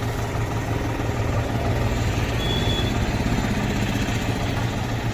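Tractor's diesel engine running steadily at idle, with an even low hum.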